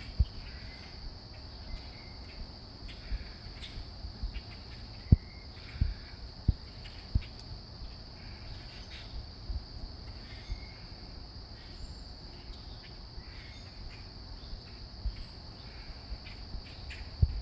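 Steady high-pitched insect chorus, with faint short bird chirps scattered through it. Low thumps come and go, the loudest about five seconds in.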